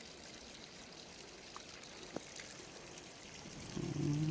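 Water pouring and trickling steadily into a koi pond. A brief low hum comes in near the end.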